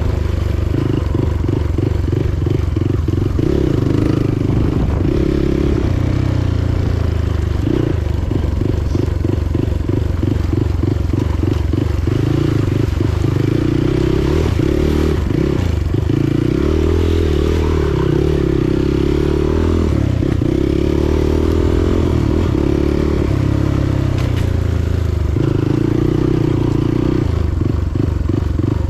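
Motorcycle engine running continuously under way, a loud low rumble whose note shifts as the ride goes on.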